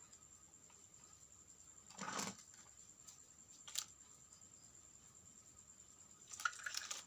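Faint handling noises from small parts being worked on: a short scrape about two seconds in, a single sharp click near four seconds, and a brief clatter of clicks near the end.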